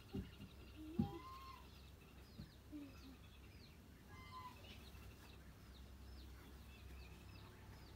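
Faint bird calls: many short, high, falling chirps scattered throughout, with a few lower calls among them. Two sharp knocks in the first second, the second the louder.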